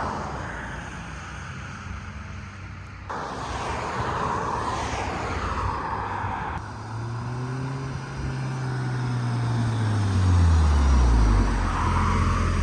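Audi TTS driving past in a few short cut-together passes, its engine note falling in pitch as it goes by. The closest and loudest pass comes in the second half, with a deep engine note dropping as the car passes.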